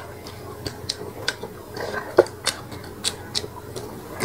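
Close-miked eating: the wet clicks and smacks of chewing, a few a second, with light taps of chopsticks on a plate.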